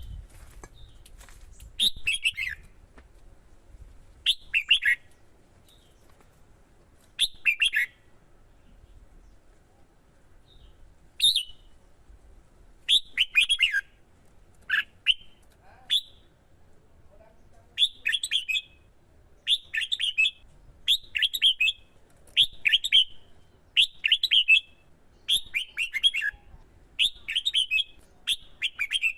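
Red-whiskered bulbul giving fired-up competition song: short, quick phrases that descend in pitch, spaced several seconds apart at first, then coming about once every second or so through the second half.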